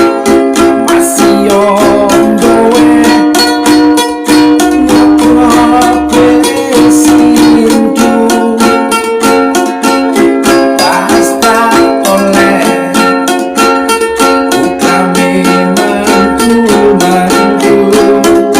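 Ukulele strummed in fast, even strokes, playing a run of chords.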